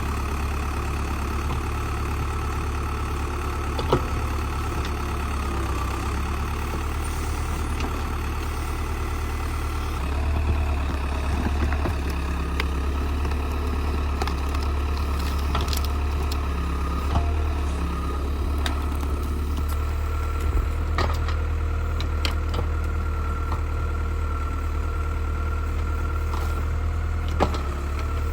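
Old tractor backhoe's engine running steadily, its low drone picking up about ten seconds in, with a few sharp knocks scattered through it.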